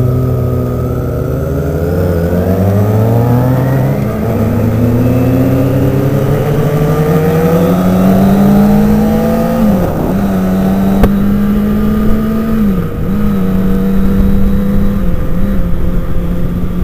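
Sport motorcycle engine under way, its pitch climbing steadily as it accelerates for about ten seconds, then dropping back and holding a steady cruise with a couple of brief dips in revs, over wind and road noise.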